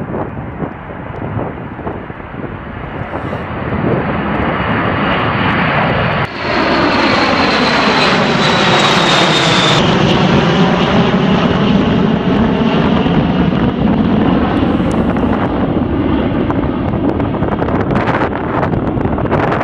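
Jet aircraft passing close by: engine noise builds, then a high turbine whine falls in pitch as the aircraft goes past, followed by a loud steady rumble.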